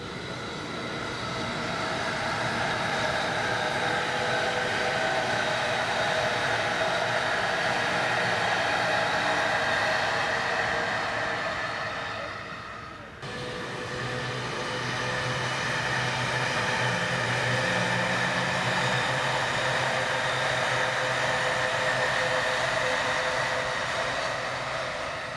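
Electric commuter train running on the Musashino Line: a steady rumble with whining motor tones underneath.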